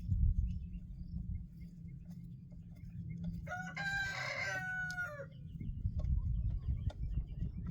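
A rooster crowing once, starting about three and a half seconds in and lasting nearly two seconds, dropping in pitch at the end.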